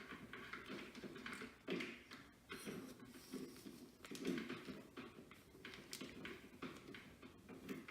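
Faint, irregular rustling and light taps of hair and a clamp curling iron being handled.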